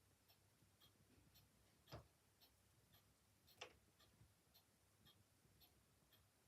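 Faint clock ticking steadily, about two ticks a second, with two sharper crackles from the fire, about two seconds and three and a half seconds in.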